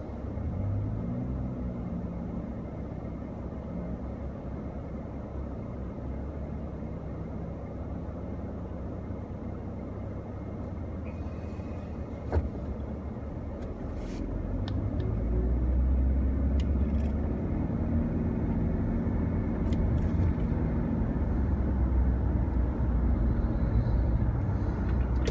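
A car running on the road, with a steady low engine and road rumble that gets louder about halfway through. There is one sharp click a little before the middle.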